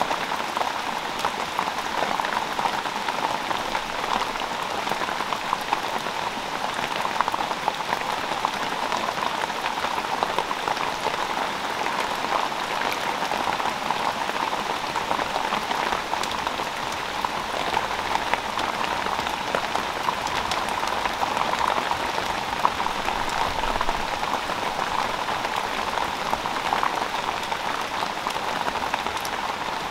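Heavy tropical rain falling steadily on leaves and foliage, a dense even hiss with many individual drops ticking through it.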